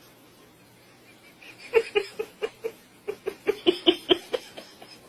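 A person laughing in a quick run of short, rhythmic bursts that starts a couple of seconds in and lasts about three seconds.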